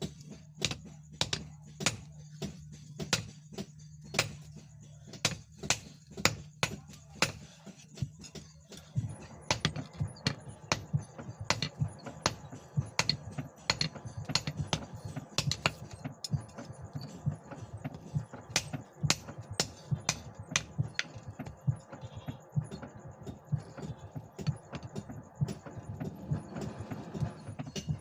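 Hammer striking steel again and again, a leaf spring being forged into a knife blade, at roughly two to three blows a second.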